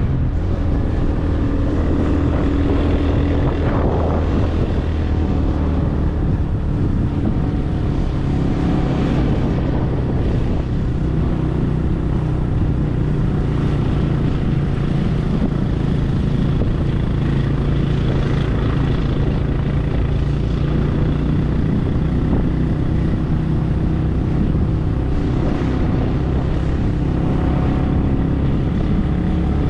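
An engine running steadily at an even pitch, heard from close by as the vehicle it drives travels.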